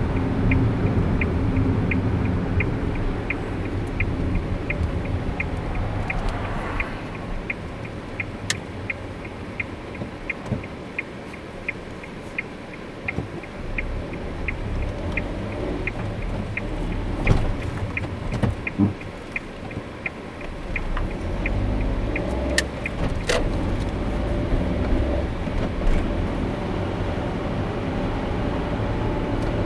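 A car's road and engine rumble heard from inside the cabin, quieter through the middle and rising again about two-thirds of the way through as the car gets going. Over it a turn-signal indicator ticks steadily about twice a second, stopping about three-quarters of the way through.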